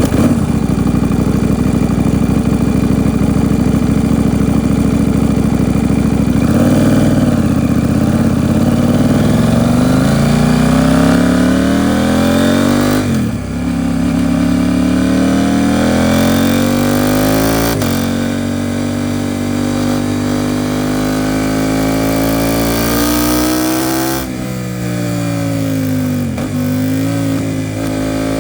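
KTM 790 Duke's parallel-twin engine through an Arrow Pro Race titanium exhaust, running steadily at first, then accelerating with the pitch climbing and dropping back at each of three upshifts.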